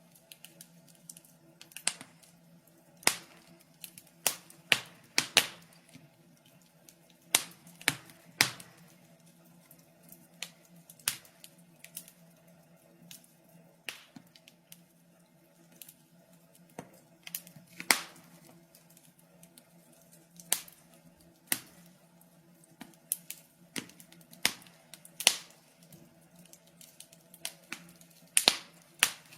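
Wood fire crackling in a fireplace: irregular sharp pops and snaps, some loud and some faint, a few each second, over a faint steady hum.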